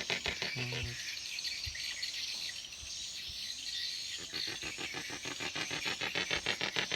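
Insects, crickets or cicadas, chirring in a fast, even pulse with many beats a second, steady throughout.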